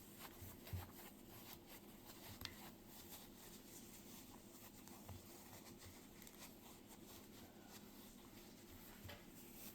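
Near silence with faint, sparse rustles and small taps as a small crocheted plushie is stuffed by hand.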